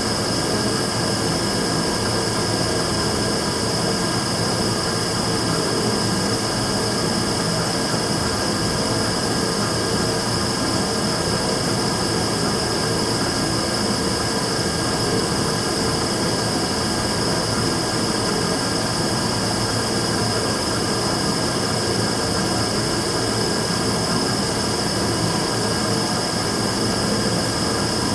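Immersion tube burner running steadily: a continuous combustion roar with a steady high-pitched whine over it, the sound recorded as the burner's abnormal noise.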